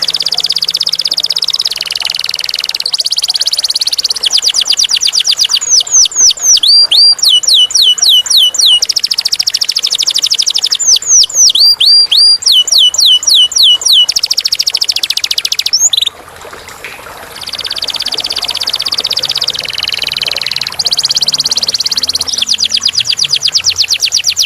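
Domestic canary singing a long, loud song of rapid trills and rolls, with runs of repeated falling whistled notes at about four a second. The song breaks off briefly about two-thirds of the way through, then resumes with more trills.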